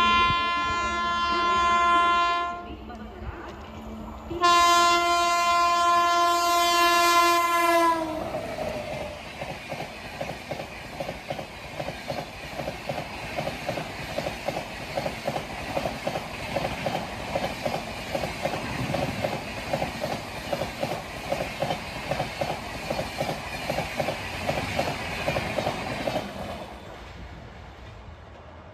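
Indian Railways electric locomotive sounding two long horn blasts, the second dropping in pitch as it passes, then the coaches of a fast express running through with a rapid rhythmic clickety-clack of wheels over rail joints that fades away near the end.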